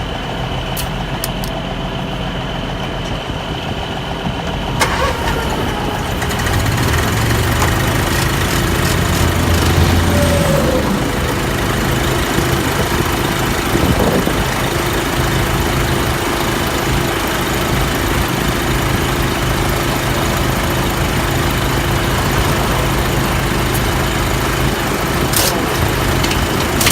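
An engine running steadily, growing louder about five seconds in and then holding an even drone.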